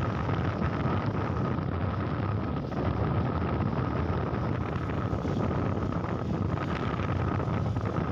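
Steady rush of wind on the microphone of a motorcycle under way, with the engine running beneath it.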